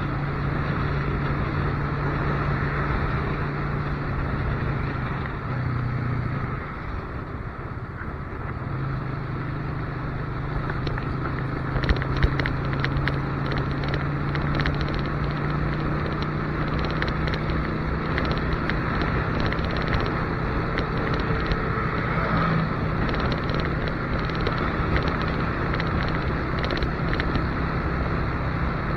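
Motorcycle engine running at riding speed under a steady rush of wind on the microphone. The engine note eases off about six seconds in, then picks back up and holds steady. There are a couple of short sharp clicks about twelve seconds in.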